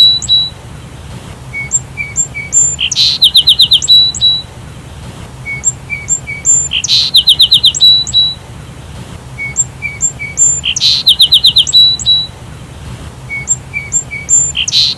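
Sparrow calls repeated in an identical phrase about every four seconds: a few short high chirps, then a loud burst and a quick run of about half a dozen rapid notes. The phrase comes four times, the same each time, as if looped.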